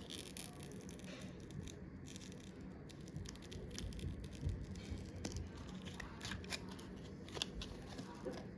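Faint, scattered small clicks and scraping from tools and loose parts being handled while an iPhone XR is taken apart.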